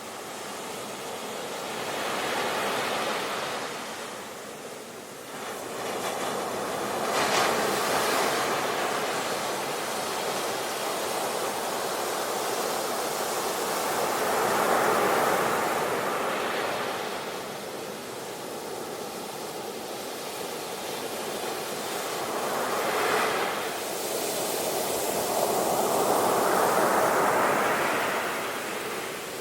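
Sea waves breaking and washing up on the shore, the surf swelling and ebbing about five times.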